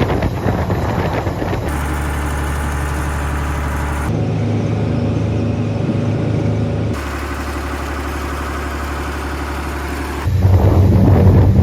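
Boat engines running steadily at idle, heard in several short clips joined by abrupt cuts, the engine tone changing at each cut.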